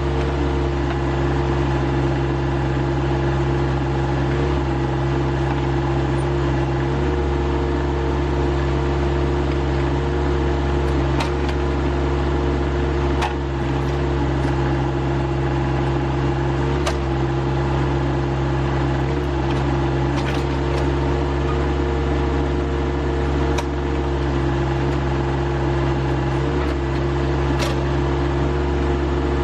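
Rural King RK25 tractor's diesel engine running steadily under backhoe work, pulling a large stump from its hole, with a few sharp clicks scattered through.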